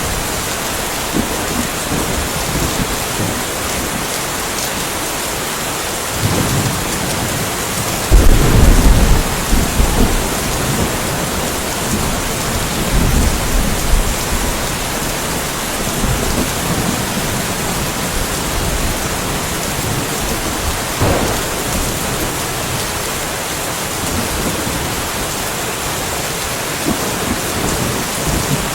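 Steady rainfall with thunder: a loud low rumble of thunder about eight seconds in that dies away over a couple of seconds, with fainter rumbles before and after and a short crack of thunder about 21 seconds in.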